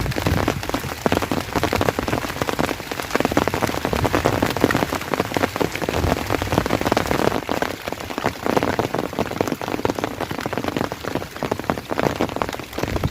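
Rain falling steadily, a dense patter of countless drops striking close to the microphone.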